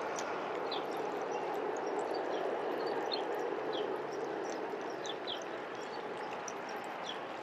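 Small birds chirping in short, high, repeated calls over a steady outdoor background noise.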